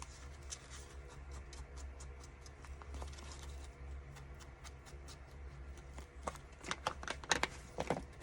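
Paper and card being handled during craft work: light rustles and ticks, busier and louder in the last two seconds, over a low steady hum.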